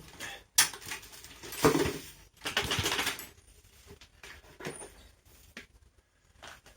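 Bottom latch of a homemade bird seed cleaner clicking open, then the collected husks and fines rattling out for about a second, followed by a few light knocks.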